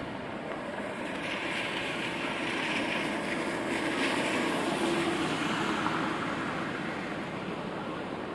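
A vehicle passing on a wet street over steady rain: the tyre hiss swells about a second in and fades again after a few seconds.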